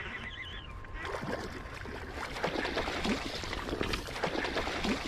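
Creek water splashing and sloshing in quick, irregular bursts, beginning about a second in.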